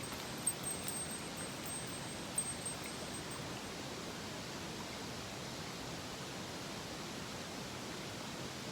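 A mountain stream running as a steady rushing hiss, with a few light clicks in the first couple of seconds.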